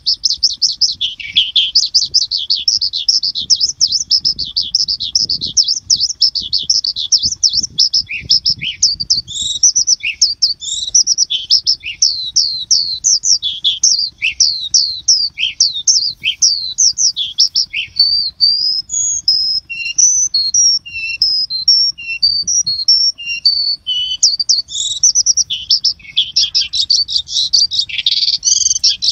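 Birds chirping continuously: a fast run of short, high, downward-sweeping chirps, several a second, breaking about two-thirds of the way through into a choppier pattern of alternating high and lower notes before the quick chirps return near the end.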